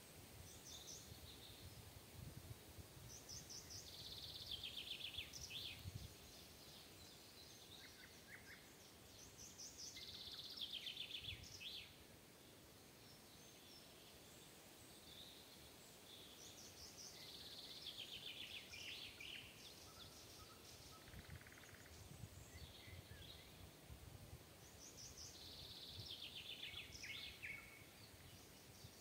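A songbird sings faintly, repeating the same trilled phrase about every seven seconds. Each phrase runs down in pitch over about two seconds. A low, even hiss of outdoor background noise lies underneath.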